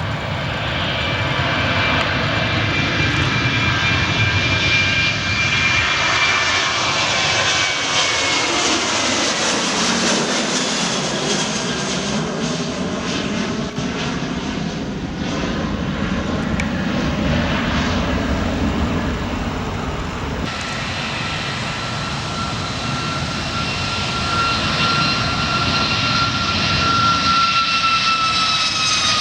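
Twin-engine Boeing 737 jetliners at takeoff power. First a 737-800 with CFM56 turbofans passes with a whine that drops in pitch as it goes by. About twenty seconds in it gives way abruptly to a 737 MAX 8 with LEAP-1B engines, whose high whine falls as it passes near the end.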